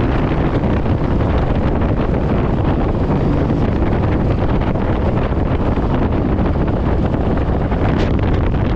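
Heavy, steady wind rush on the microphone of a motorcycle rider moving at speed, strongest in the low end.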